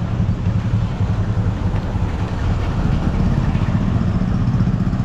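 Steady low rumble of a vehicle's engine and road noise.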